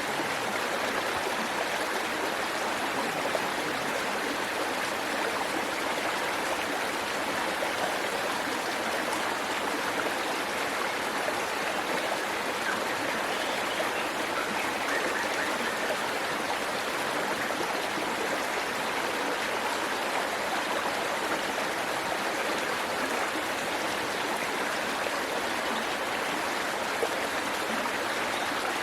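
Waterfall rushing steadily, water splashing and streaming without a break.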